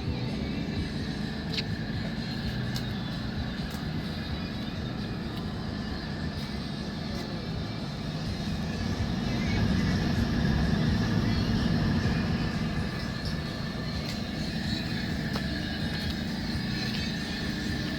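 Steady engine drone from radio-controlled model aircraft, with a thin steady whine above it, swelling louder about halfway through and settling back, over faint voices.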